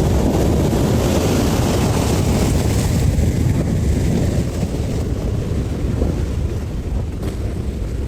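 Strong storm wind buffeting the microphone: a loud, steady rushing rumble that eases slightly about halfway through.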